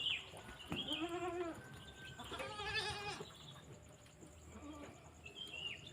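Animal calls: two quavering, pitched cries about a second and two and a half seconds in, then a short faint one near the end.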